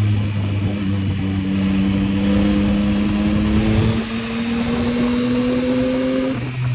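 Yamaha MT-09's inline three-cylinder engine pulling under acceleration, its pitch climbing steadily for about six seconds and then dropping suddenly near the end, as at a gear change or throttle roll-off, with wind noise over the microphone.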